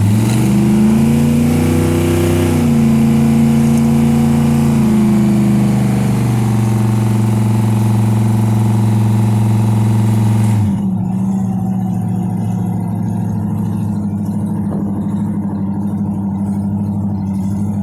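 1957 Chevrolet's engine running under way. It revs up about a second in and holds a steady drone. Near the end of the first ten seconds it drops back, and it runs on lower and quieter.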